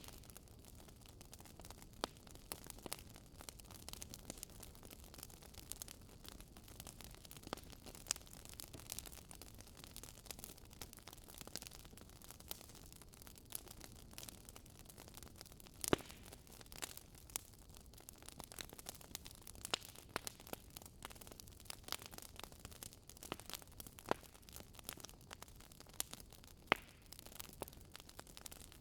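Wood fire burning in a fireplace: irregular sharp crackles and pops over a low steady hiss, with a louder pop about halfway through and another near the end.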